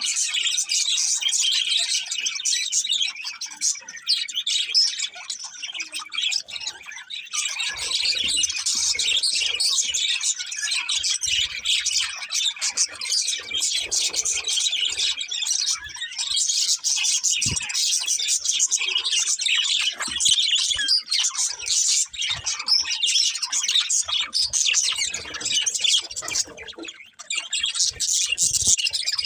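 A pair of budgerigars chirping and chattering, a rapid high twittering that barely pauses, thinning briefly a few seconds in and again near the end.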